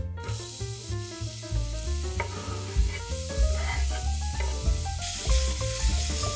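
Food sizzling as it fries in oil in a pan, a steady hiss that grows louder near the end, over background music with a bass beat.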